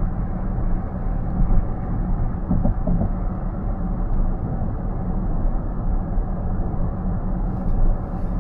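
Steady road and tyre noise inside a car cruising at highway speed, a low, even rumble.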